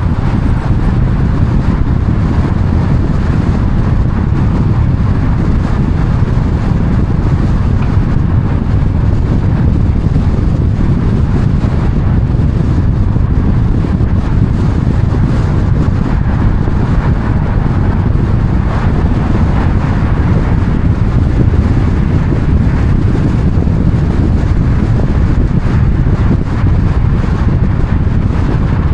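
Steady, loud rumble of a moving car with wind noise, heaviest in the low end and unchanging throughout.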